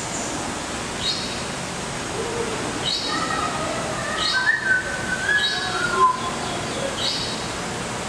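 Caged tropical birds calling in an aviary: a short high chirp repeats about once a second, with a few brief whistled notes near the middle, over a steady background rush.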